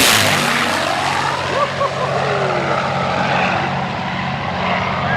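Propeller aircraft flying past. Its engine drone drops in pitch as it passes at the very start, then runs on steadily.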